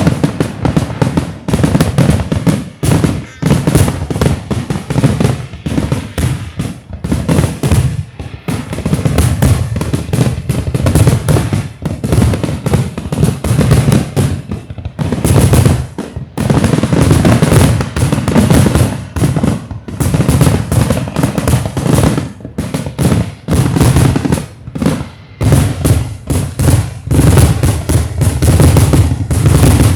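Aerial fireworks going off in a rapid, near-continuous barrage of booms and crackling bangs, with a few brief lulls.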